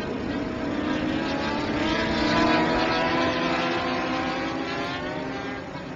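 Superbike engine running on the circuit in a race broadcast, its note climbing and getting louder, then falling away toward the end.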